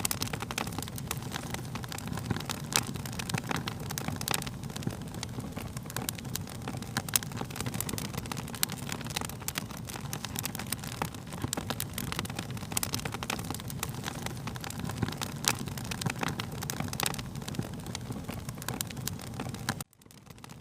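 Wood fire crackling, with frequent sharp pops over a steady low rumble of flame. Near the end the sound cuts out suddenly and then fades back in.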